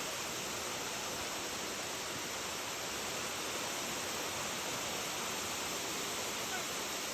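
Steady rushing of water from a waterfall: an even, unbroken hiss.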